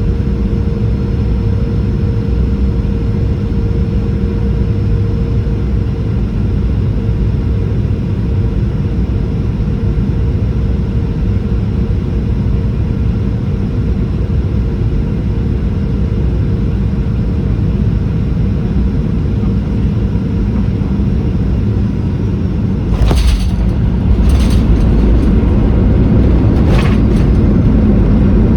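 Steady rumble of a Boeing 737-800's engines and airflow heard inside the passenger cabin, with a steady hum. Near the end come a few sharp knocks over about four seconds, and the rumble gets louder after them.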